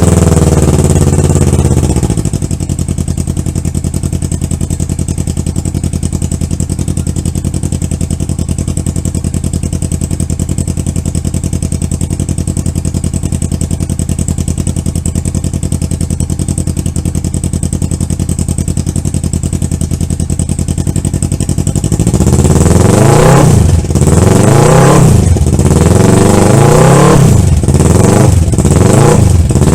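2014 Kawasaki Ninja 650's parallel-twin engine through a custom stainless steel exhaust: the revs drop back to idle about two seconds in and it idles steadily, then near the end the throttle is blipped several times, each rev rising and falling quickly.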